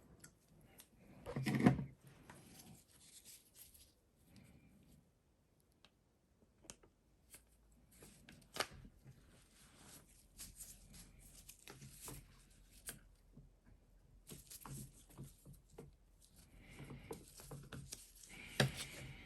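Metal parts of a Denso starter motor handled and fitted together by hand: scattered clicks, knocks and rubbing, with a louder knock about one and a half seconds in and another near the end.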